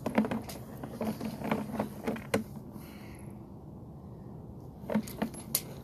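Sewer inspection camera gear being worked at a basement cleanout: a string of sharp clicks and knocks, quieter in the middle and picking up again near the end, over a low steady hum.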